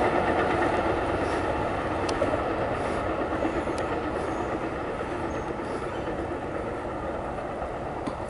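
MARC commuter train rolling away on the rails, a steady rumble of wheels on track that slowly fades as the train recedes around a curve, with a few brief clicks.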